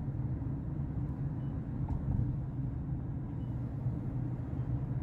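Steady low rumble of a vehicle, heard from inside, with a faint tick or two.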